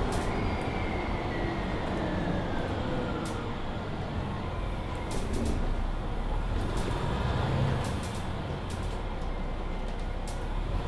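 Mercedes-Benz Citaro C2 hybrid city bus heard from inside while under way: a steady engine and road rumble, with a whine that falls in pitch over the first few seconds and scattered rattles and clicks from the body.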